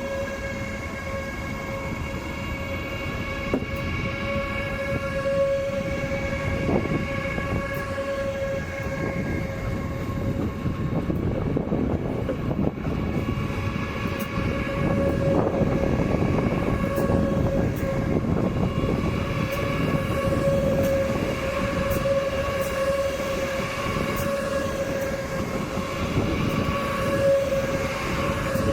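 Train in the station: a steady high whine with a row of overtones holds unchanged throughout, over a rolling rumble that grows louder about halfway through.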